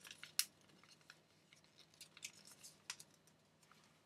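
A sheet of printer paper crackling and rustling in the hands as it is folded and creased into an origami crane: scattered soft, crisp crackles, the sharpest about half a second in and again near three seconds.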